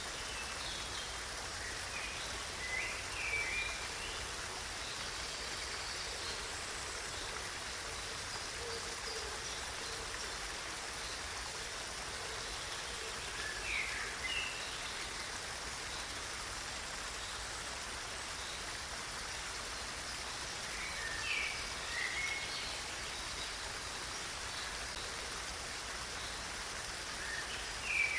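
Steady rush of running water, as of a stream, with a bird chirping briefly every several seconds, four times in all.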